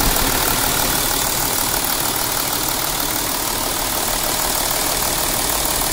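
Porsche Cayenne's turbocharged engine idling steadily, heard close up at its accessory belt drive, with the alternator belt running on the freshly refitted crankshaft pulley and seated properly in its grooves.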